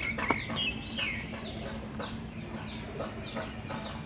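Small birds chirping repeatedly in quick, short falling notes, with a brief held whistle in the first second, over a steady low hum.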